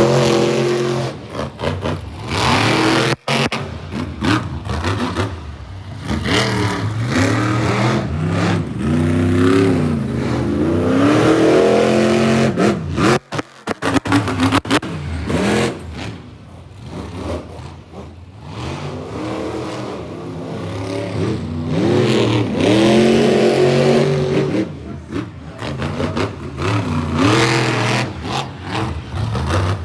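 Monster truck engine revving hard, its pitch rising and falling over and over as the throttle is worked. The sound drops out briefly twice, about three seconds in and again around thirteen seconds.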